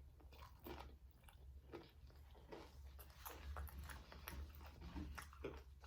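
Faint, close-up chewing of a mouthful of a rice-and-bean burrito bowl: many soft, irregular wet mouth clicks.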